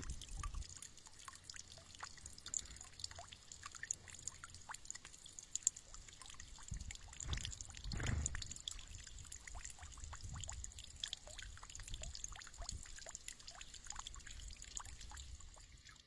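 Water trickling and dripping in a bird bath, with many small ticks and splashes.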